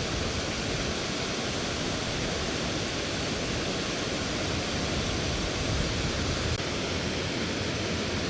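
Steady rush of river water pouring over a shallow waterfall, an even hiss that holds unchanged throughout.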